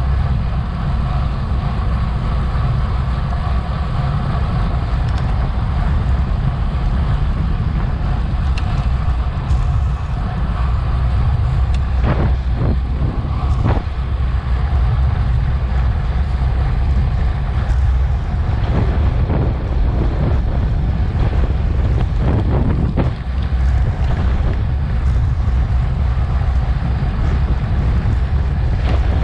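Wind buffeting a Garmin VIRB action camera's microphone on a bicycle at race speed: a steady, heavy low rumble. A few short rattles or knocks come through in the middle stretch.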